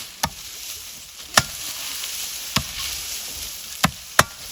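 A series of sharp chopping strikes, five in about four seconds at uneven spacing, the last two close together, over a steady hiss.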